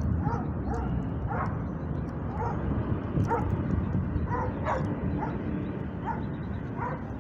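A dog barking in short, repeated barks, about one or two a second, over a steady low rumble of city background noise.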